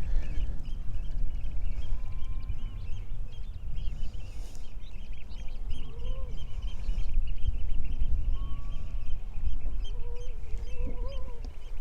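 Oystercatchers piping: a dense, unbroken run of short, rapid high calls, with a few lower gliding calls from other birds around the middle and near the end, over a steady low rumble.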